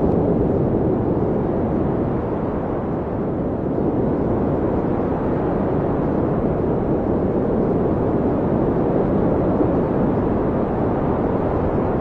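Blizzard wind blowing hard and continuously, a deep rushing noise that swells and eases slightly.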